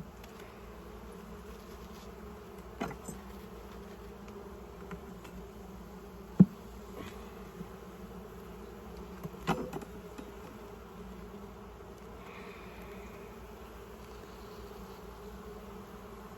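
Honey bees buzzing steadily around an open hive. A few sharp knocks break in, about three, six and a half and nine and a half seconds in, the middle one the loudest.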